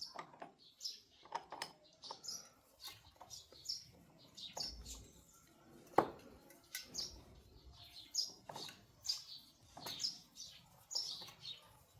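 Small birds chirping repeatedly in short high calls, with one sharp click about halfway through.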